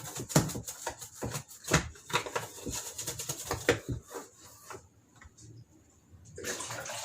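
Quick irregular scraping and knocking on washing machine parts as they are being cleaned, dense for about four seconds, then a few scattered knocks and a short rush of noise near the end.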